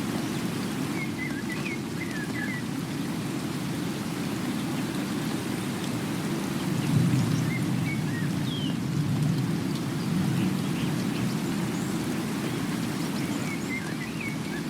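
Steady rain with a faint chirp of birds a few times. The rain swells louder a couple of times midway.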